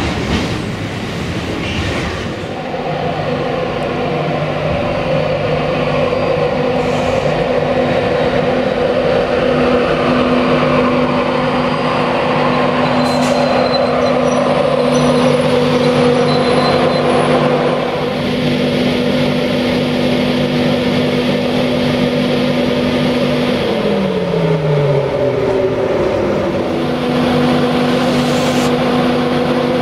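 A train's steady mechanical hum, made of several held tones, running throughout. About three-quarters of the way through, a pair of tones slides down in pitch, then the steady hum picks up again.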